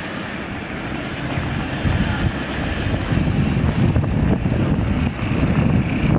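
Blizzard wind blowing across the microphone, a steady rushing with low buffeting gusts that grow stronger about two seconds in.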